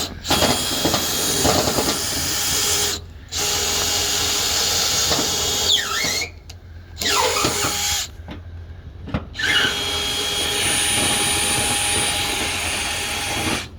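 Power drill boring mounting holes, running in about four long stretches with three short stops between them.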